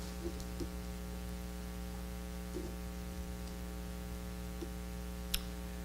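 Steady electrical mains hum from the sound system, with a few faint ticks and one sharp click near the end.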